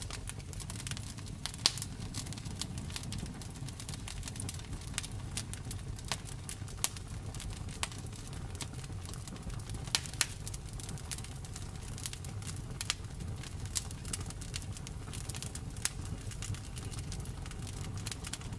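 Wood fire crackling: irregular sharp pops and snaps, a couple of them louder, over a steady low rumble.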